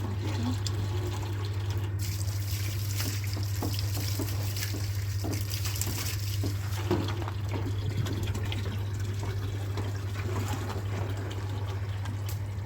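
Washing machine running with water and blankets inside: a steady low motor hum with water sloshing over it.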